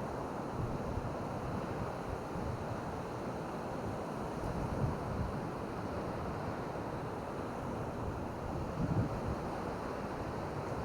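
Steady wash of surf and wind on a beach, with low rumbles of wind on the microphone swelling briefly about halfway through and again near the end.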